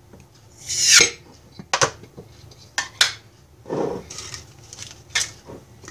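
Kitchen utensils and containers handled while measuring dehydrated broccoli: a louder rustling clatter about a second in, then a few sharp clinks and a scrape.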